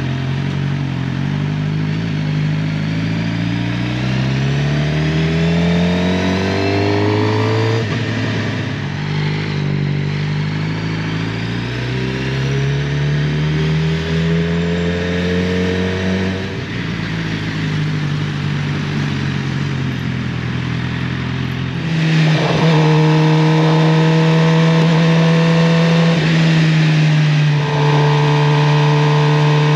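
Suzuki GSX-R750's inline-four engine pulling through the gears, its pitch rising twice and dropping at each upshift, then holding a louder, steady note at speed for the last several seconds.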